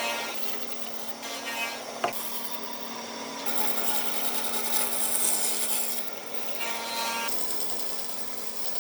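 A power tool working wood, over a steady hum, with a sharp knock about two seconds in. The hissing noise is loudest from about three and a half to six seconds in.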